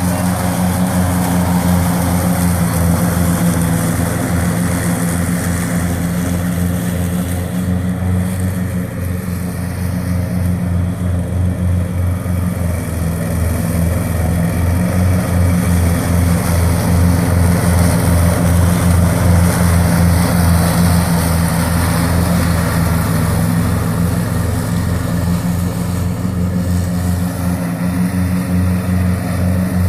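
Wolf-Garten Expert 105.18 H ride-on lawn tractor running steadily while mowing, its engine a continuous even hum that eases slightly about nine seconds in.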